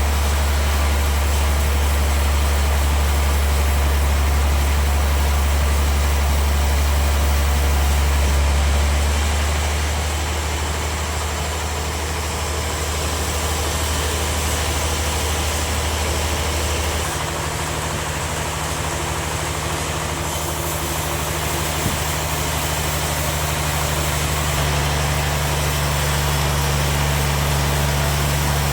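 Sawmill machinery running with a loud, steady low drone that steps slightly in pitch a few times.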